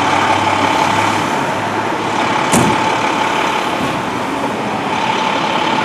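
A fire truck's engine runs amid steady street noise, with a thin steady tone throughout. One short sharp burst comes about two and a half seconds in.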